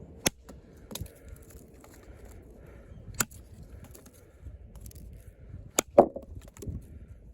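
Heavy 7.2-inch, 6 mm thick Sleipner steel blade of a combat knife chopping into wood: about five sharp chops at irregular intervals, the loudest near the end.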